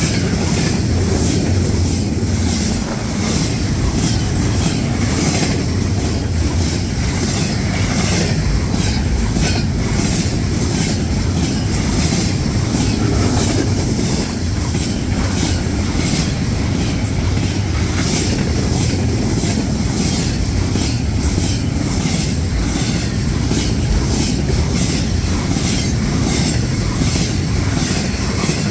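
Intermodal freight train rolling past: a loud, steady rumble of the cars with repeated wheel clicks over the rail joints.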